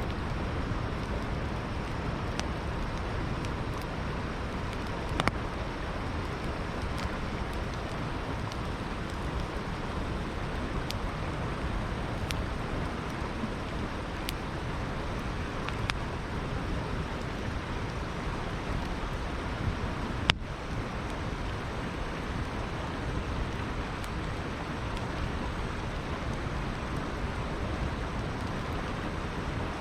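Campfire crackling, with a few sharp single pops from the burning wood, over the steady rushing of a flowing river.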